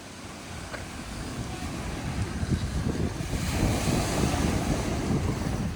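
Wind buffeting the microphone over the wash of lake water, growing louder about halfway through.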